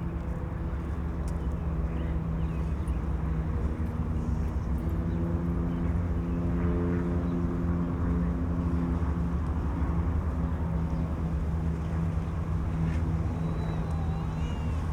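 A large engine running steadily: a low rumble under a steady hum.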